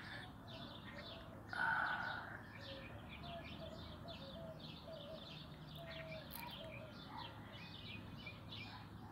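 Small birds chirping in the background: a steady run of short, repeated chirps, a few a second. A brief soft rush of noise, the loudest thing here, comes about one and a half seconds in.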